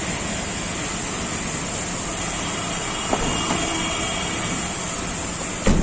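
Vehicle driving, a steady even road noise heard from inside it, with a single thump near the end.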